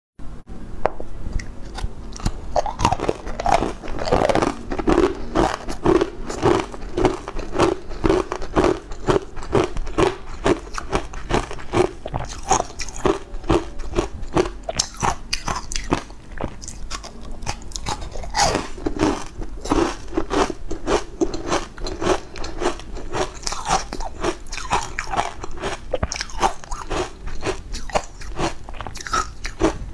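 Close-up biting and chewing of hard, green powder-coated blocks: a dense, continuous run of sharp, crisp and sandy crunches with a steady chewing rhythm of about two to three chews a second.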